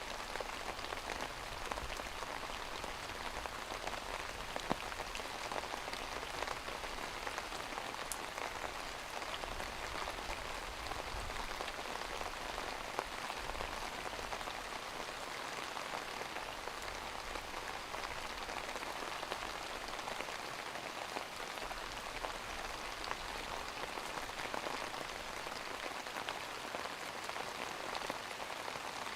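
Steady rain falling, an even hiss of many drops with now and then a single louder drop.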